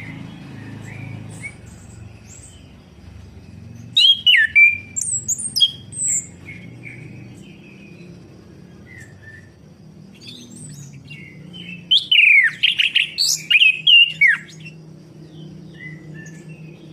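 Chestnut-capped thrush (anis kembang) singing in two loud bursts of quick, sweeping whistled notes, about four seconds in and again about twelve seconds in, with softer scattered chirps between them over a steady low hum.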